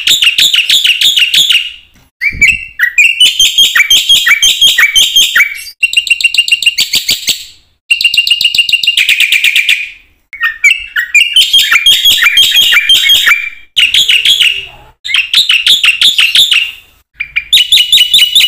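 Black-winged starling (jalak putih) singing loudly in bouts of rapidly repeated chirps, each bout a second or two long, with short pauses between.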